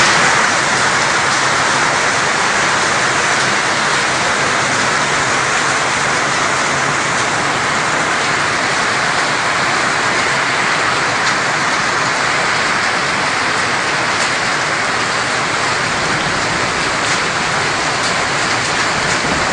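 Heavy rain pouring down steadily during a thunderstorm, an even hiss of downpour on the ground and surrounding surfaces.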